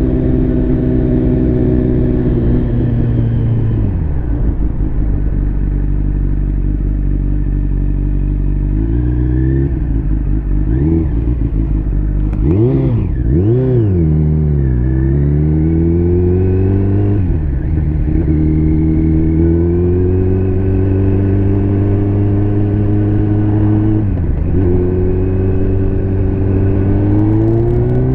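Liter-class motorcycle engine under way, its pitch climbing slowly through each gear and dropping at each upshift, about four times. Around the middle it dips and rises sharply a couple of times.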